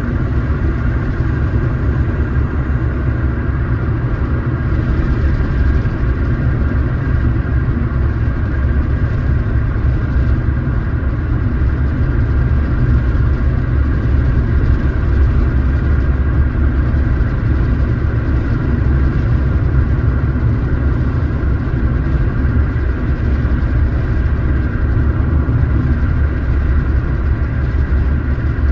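A car driving along steadily: a constant low engine and road rumble with a faint steady whine on top.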